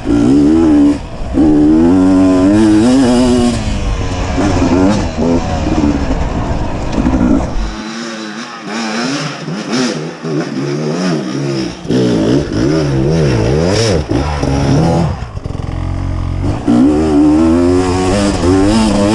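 Beta 250 RR two-stroke dirt bike engine being ridden on a trail, its revs rising and falling again and again with the throttle.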